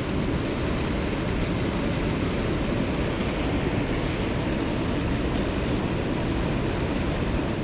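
Mountain stream water rushing steadily, an even, unbroken hiss.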